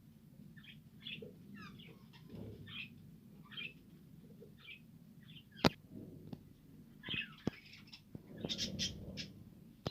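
Budgies chattering in short chirps, with one sharp click a little over halfway through and busier chirping near the end.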